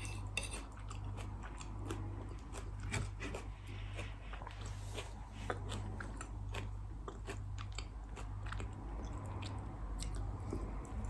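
Close-miked chewing and crunching of salad, with small clicks of a fork against a plate.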